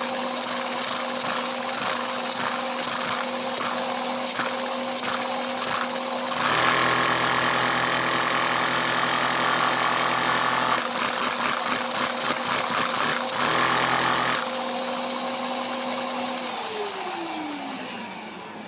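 A Lego vacuum engine running fast on suction from a vacuum cleaner. The motor hums steadily under a rapid clatter of the plastic piston and crank. The sound grows louder and changes tone for a few seconds midway, then the hum falls in pitch as the engine winds down near the end.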